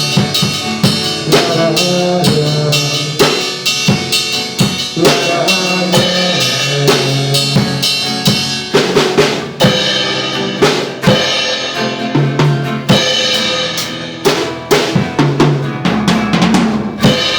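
Instrumental break of a pop-rock song played by a band: a drum kit with bass drum and snare keeps a steady beat under sustained pitched instruments, with no singing.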